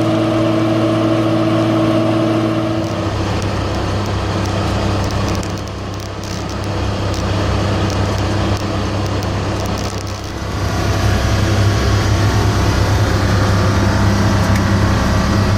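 A fire apparatus engine running steadily, with a steady tone over it that stops about three seconds in. The engine grows louder about ten and a half seconds in.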